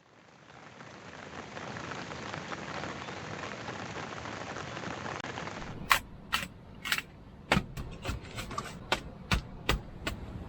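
A steady hiss like rainfall fades in and runs for about six seconds. It then gives way to about a dozen sharp, irregular knocks, roughly two a second.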